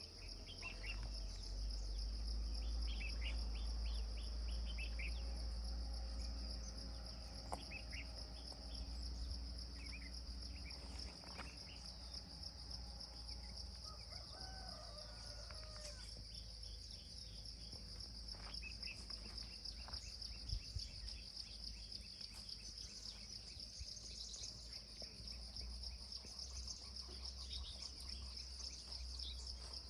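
Insects trilling steadily at a high pitch, with scattered short bird chirps and calls. A low rumble runs underneath, strongest in the first part.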